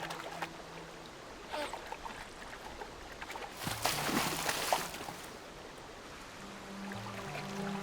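Water splashing and trickling at a river's edge, with a louder splash from about three and a half to five seconds in. Soft sustained background music fades out early and comes back near the end.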